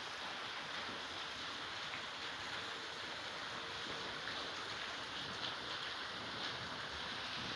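Steady hiss of rainwater after a heavy downpour, even throughout with no distinct splashes or drips standing out.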